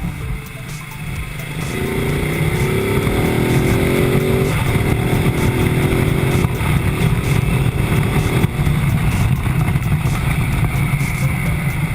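Ducati Multistrada motorcycle engine accelerating: its pitch climbs from about two seconds in, drops at a gear change, climbs again and shifts once more, then settles into a steady run.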